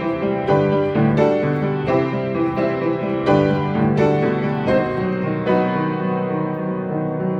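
A century-old upright piano, a little out of tune, playing a slow, minimalist prelude: notes struck at an even pace of about one every two-thirds of a second, the last about five and a half seconds in and then left ringing.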